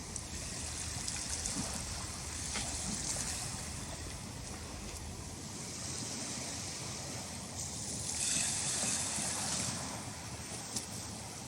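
Sea waves washing onto the shore: a steady hiss of surf that swells twice as waves come in.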